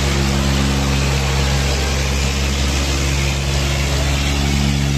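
Diesel tractor engine running steadily at a constant speed, with no revving.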